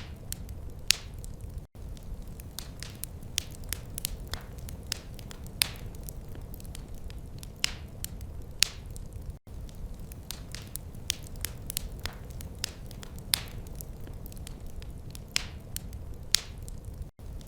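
Wood fire in a fireplace crackling: irregular sharp pops and snaps over a steady low rumble. The sound cuts out for an instant three times.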